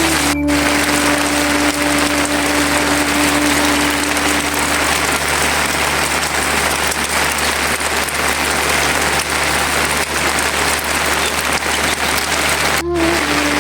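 Heavy rain falling hard and steadily, with a steady hum during the first few seconds. The sound drops out for an instant twice, about half a second in and near the end.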